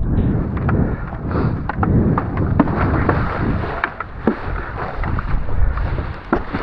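Wind buffeting the microphone in a heavy low rumble, with many sharp little splashes and water droplets hitting through it, as a hydrofoil board is ridden under a parawing.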